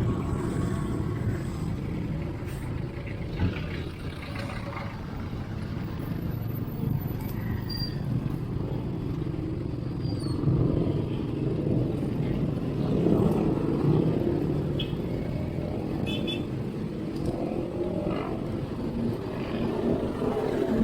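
Road traffic noise around a moving bicycle: a steady, rising and falling rumble of cars and other motor vehicles.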